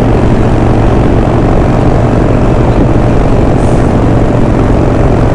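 Harley-Davidson Sportster 48's V-twin engine running steadily under way, heard from the saddle with loud wind rush over the microphone.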